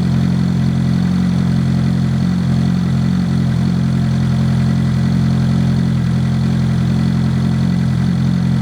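A warmed-up 2011 Suzuki GSX-R600's inline-four engine idling steadily through a Yoshimura TRC carbon fibre slip-on exhaust, with no revving.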